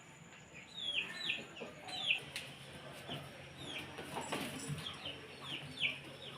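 Chicks peeping: repeated short high peeps, each falling in pitch, often in quick pairs, with some rustling and light knocks in the middle.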